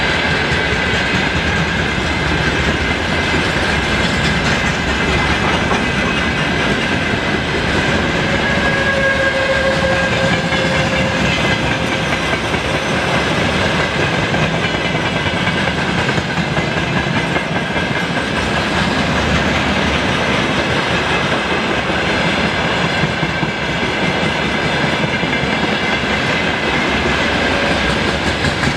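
Freight train of open gondola wagons and tank cars rolling past at speed behind a 2ES6 electric locomotive, its wheels clattering steadily over the rail joints.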